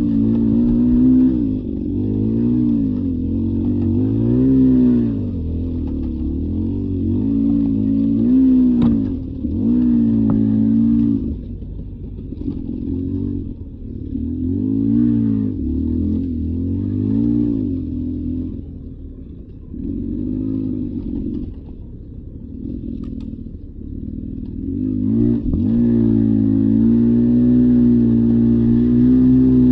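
Beta 300 RR two-stroke dirt bike engine, revving up and down every second or two as the throttle is worked on the trail. It eases off and runs quieter for several seconds about two-thirds through, then holds a steady higher rev near the end.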